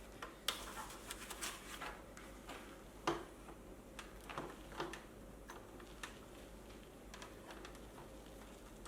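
Scattered light clicks, taps and small knocks of unicycle wheel parts being handled, with two sharper knocks, about half a second and about three seconds in.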